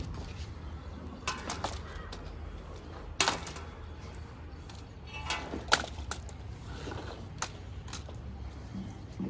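Scattered knocks and clanks, one every second or two, over a steady low rumble: solar water heater parts and stand being handled during installation.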